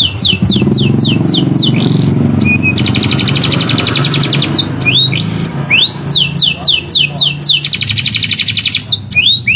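Domestic canary singing its roller-style song. Rising whistled notes and runs of quick downward-slurred notes are broken twice by fast, even rattling trills, the sharp 'roll', about three seconds in and again near the end. A low buzz runs underneath.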